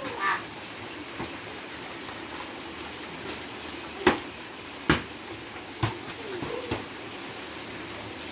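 Steady rain falling, with four short sharp knocks in the middle of the stretch, the loudest about four seconds in.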